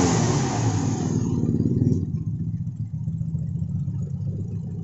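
Toyota Innova's 1TR four-cylinder petrol engine dropping back from a rev in the first second, then idling steadily. The engine is being checked for a misfire and a shake.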